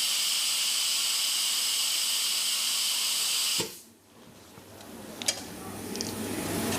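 A steady hiss of rushing air from the repair equipment, with a faint whistly edge, cutting off suddenly about three and a half seconds in. A fainter noise then builds back up, with a few light clicks.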